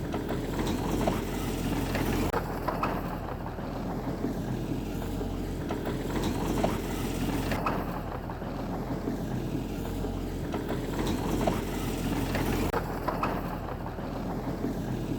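Heavy diesel earthmoving machinery running steadily under load, with scattered short metallic clanks and knocks.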